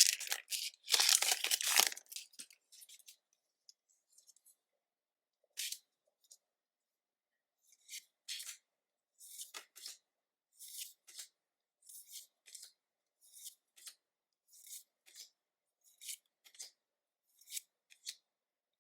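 Crinkly tearing of a Pokémon booster pack's foil wrapper for about the first two seconds. After a pause comes a run of short, even swishes, one about every three quarters of a second: trading cards slid off the stack one at a time.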